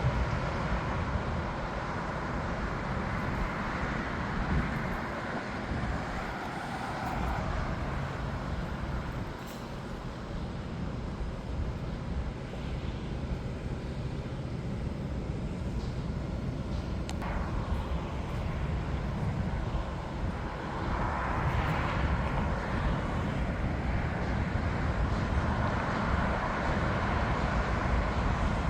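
Jet airliner engine noise, a continuous rushing sound that eases in the middle and swells again about two-thirds of the way through.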